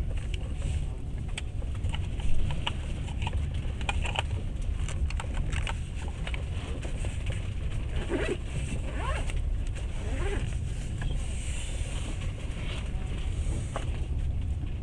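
Passenger train running along the track, heard from inside the carriage: a steady low rumble with scattered rattles and clicks, and one louder knock about two seconds in.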